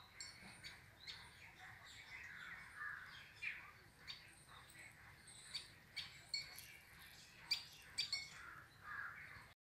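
Small birds chirping outdoors: many short, sharp chirps at irregular intervals over a softer, continuous twittering. The sound cuts out for a moment near the end.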